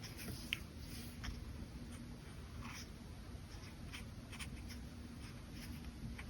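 Brush pen tip stroking and scratching lightly on paper in a string of short, irregular strokes.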